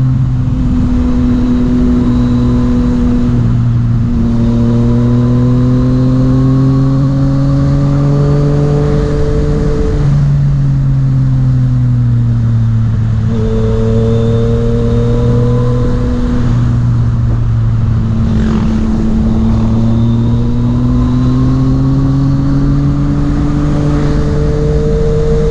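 Yamaha MT-09's three-cylinder engine under way, its pitch climbing steadily and then dropping back twice, about ten seconds in and again around two-thirds through, as it shifts up through the gears, over constant road and wind rumble.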